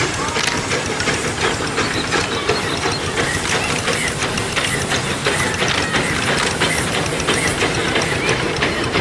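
A train rolling by at close range, its wheels and running gear giving a steady, dense metallic rattling and clicking, with a few brief squeals.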